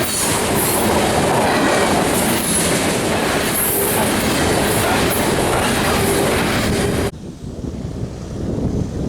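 CSX freight train passing close by, its railcar wheels rolling over the rails with clatter and a high squeal. The sound cuts off abruptly about seven seconds in, leaving a low rumble of wind on the microphone.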